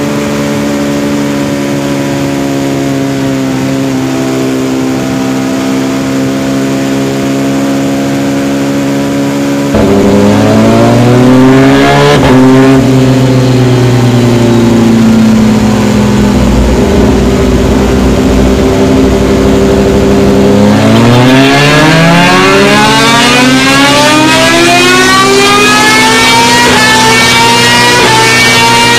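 Rusi Gamma R200 motorcycle engine running under way, steady at first. About ten seconds in it gets louder and its pitch rises and then falls; from about twenty seconds in the engine pitch climbs steadily as the bike accelerates.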